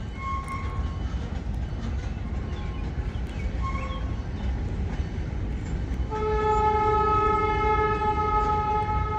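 Diesel locomotive rumbling as it runs, then its horn sounding one long blast starting about six seconds in.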